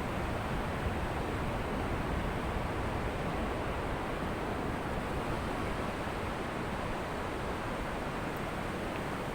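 Ocean surf on a beach: a steady rush of waves with a low rumble, with no single breaker standing out.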